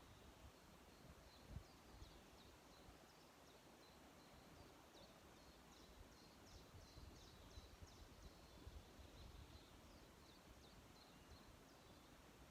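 Faint birdsong: a long run of quick, high chirping notes over a low background rumble, with a soft low thump about a second and a half in.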